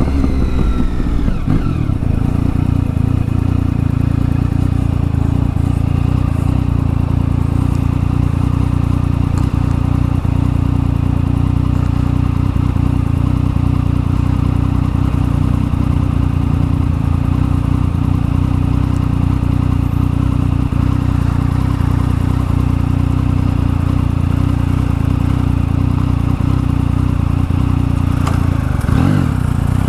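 Triumph Tiger 1050's three-cylinder engine running steadily through a new aftermarket exhaust, settling down in pitch in the first second or two. There is a brief change in engine note near the end.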